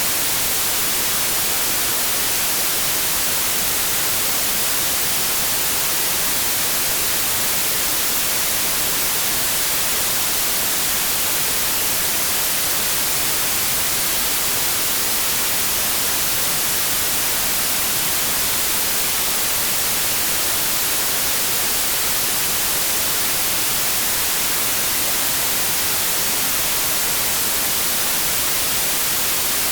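Steady white noise: an even, unbroken hiss of static with no changes.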